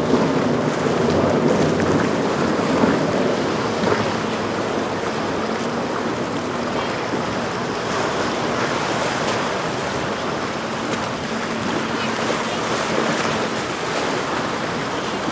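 Steady wash of ocean waves with wind noise on the microphone, under a faint steady low hum of a boat engine.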